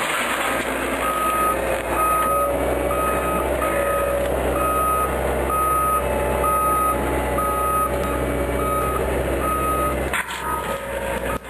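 Heavy vehicle's reversing alarm beeping at a steady rate of about two beeps a second over its running engine, cutting off about ten seconds in.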